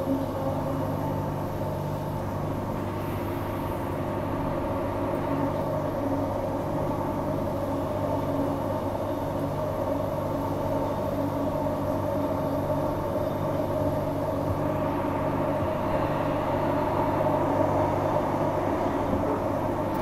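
Transperth A-series electric multiple unit (Walkers Limited) giving a steady hum made of several constant tones, with no change in pitch.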